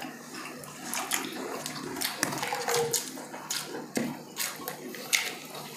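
Close-miked eating: wet chewing and lip-smacking, a string of short, irregular mouth clicks and squelches.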